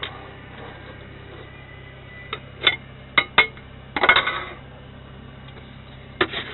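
Dishes and utensils being handled: a string of sharp clinks and knocks, densest about four seconds in, over a steady low hum.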